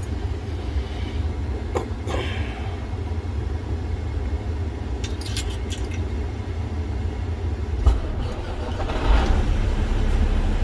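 Semi truck's diesel engine being remote-started: a low rumble with a few clicks, then a thump about eight seconds in as the engine catches, and it runs louder to the end.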